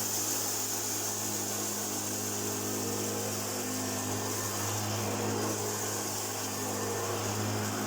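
1991 Hoover Junior U1412 upright vacuum cleaner running steadily: an even motor hum with a high airy fan whine over it.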